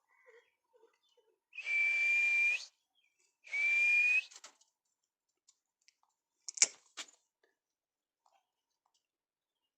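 Two long, steady whistles, each on one held high note, the second shorter. A few seconds later come two sharp clicks.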